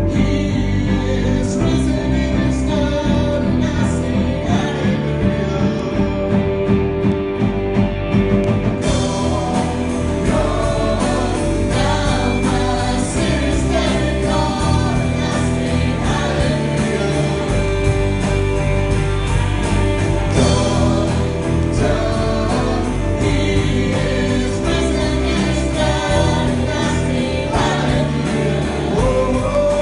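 Gospel song: voices singing over instrumental backing with guitar.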